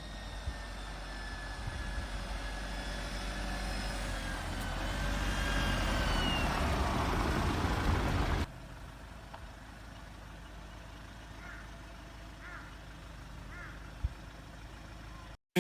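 A vehicle driving, its engine and road noise with gliding tones building up over about eight seconds, then a sudden cut to a much quieter background with three short, faint chirps.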